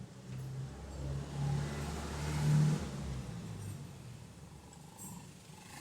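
Toyota Previa's engine revving as the throttle is pressed. It rises to a peak about two and a half seconds in, then falls back toward idle.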